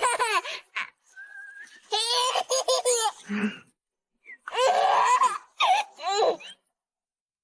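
A person laughing hard and high-pitched, in three bouts of rapid, breathless bursts, then falling quiet about a second before the end.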